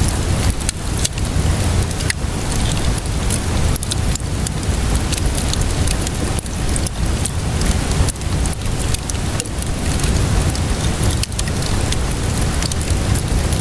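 Steady rainfall with a wood fire crackling over it, many sharp pops and snaps scattered through, above a constant low rumble.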